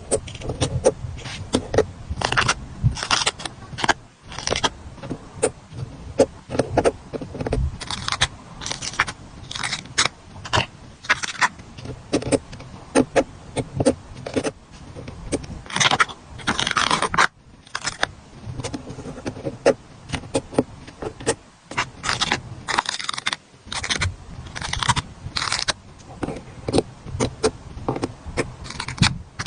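Stickers being peeled off their backing sheets and handled, an uneven run of short crackling, scraping peels with one longer peel about sixteen seconds in.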